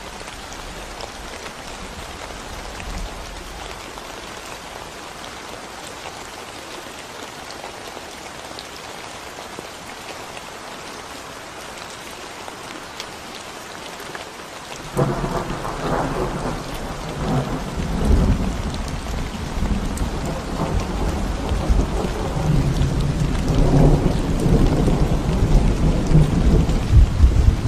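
Steady rain falling on a concrete road and the greenery around it. About halfway through, a loud low rumble comes in suddenly and keeps building toward the end.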